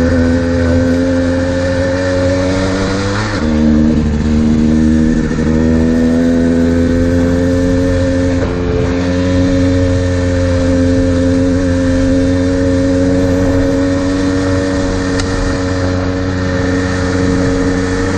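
Modded Kawasaki KDX220R's two-stroke engine with FMF exhaust, running hard at speed. Its note drops sharply about three seconds in, climbs back, then holds steady.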